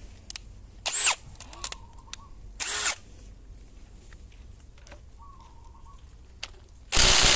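AEG BSS18C12Z 18 V brushless cordless impact wrench, on its highest setting, hammering in three short bursts on a seized front pulley bolt of a 1JZ engine. It hammers again in a longer burst of over a second near the end, and the bolt does not come loose.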